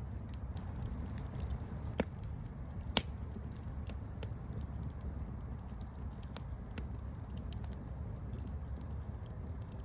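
Campfire burning with a steady low rumble and scattered small crackles and pops, two sharper snaps about two and three seconds in.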